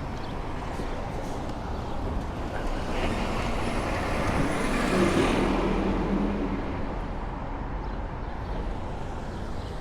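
City street traffic: a motor vehicle passes close by, its engine and tyre noise rising to a peak about five seconds in and then fading, over steady road noise.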